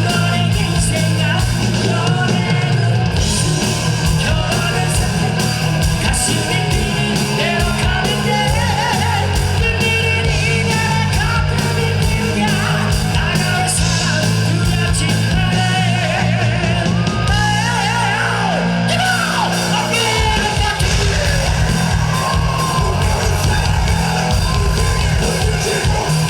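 Live rock band playing loud, with a high male rock vocal over electric guitar, bass and drums. The low end shifts about twenty seconds in as the band changes its pattern.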